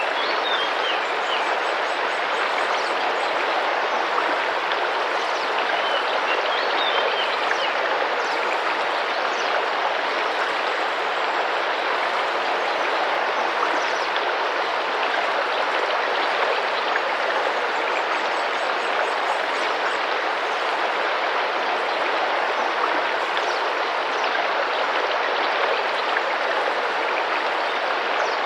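Tropical rainforest river running and splashing steadily, with faint bird chirps now and then.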